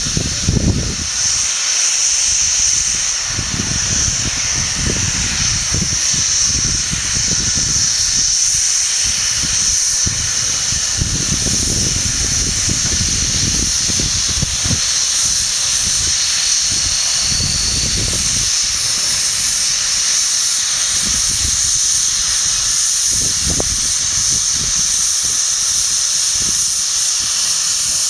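Steam locomotive Twizell letting off a steady, continuous hiss of steam, with uneven low rumbling underneath.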